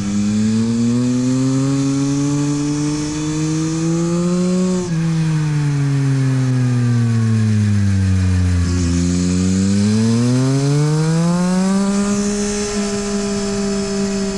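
Yamaha MT-09 SP's 890 cc inline three-cylinder engine through a LeoVince exhaust, ridden hard. Its pitch climbs, drops suddenly about five seconds in as it shifts up, falls away for a few seconds, then climbs again and holds steady near the end.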